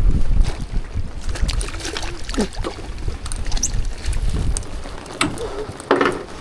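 Low wind rumble on the microphone, loudest in the first second, with scattered clicks and knocks from gear on a small moored boat.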